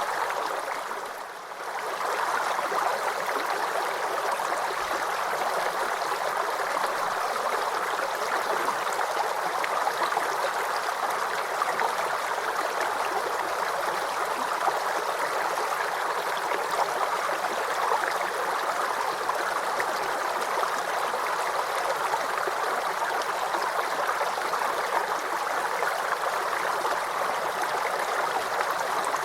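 Small forest creek babbling and gurgling steadily over stones, with a brief dip in level about a second in.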